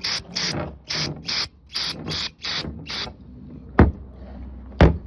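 Quick repeated squirts of a spray bottle cleaning off an oil drain plug, short hissing bursts about two and a half a second that stop about three seconds in. Then two sharp knocks about a second apart.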